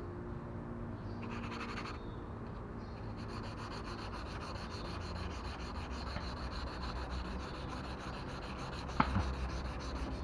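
Sandpaper scrubbing a plastic car headlight lens in quick, even back-and-forth strokes: a brief run, then a steady run from about three seconds in. A single sharp knock comes near the end.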